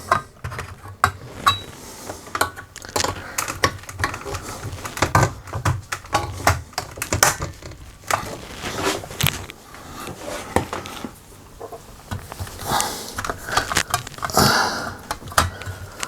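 Irregular clicks, knocks and rattles of the laminator's internal parts being handled and worked as a fouled part is coaxed back into position. A longer, louder scrape comes near the end.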